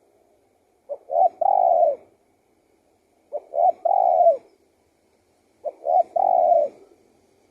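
Spotted dove singing its song three times: each phrase is two short coos followed by a longer coo that rises and falls, repeated every two and a half seconds or so.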